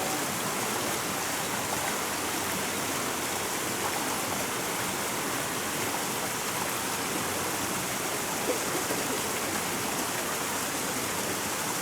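A river running over rocks: a steady, even rush of water.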